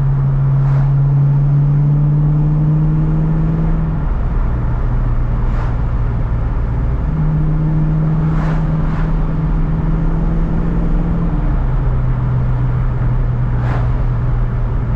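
A 1993 Ford Mustang Cobra's 5.0 L V8 running steadily, its low hum stepping up and down in pitch a few times as the engine speed changes. There are a few faint taps over it.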